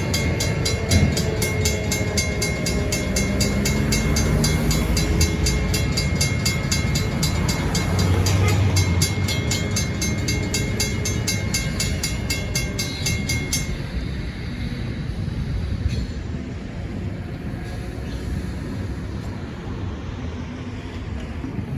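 Stockton Terminal and Eastern diesel train running past, the engine note shifting in pitch, with a rapid, evenly repeating ringing that stops about two-thirds of the way through.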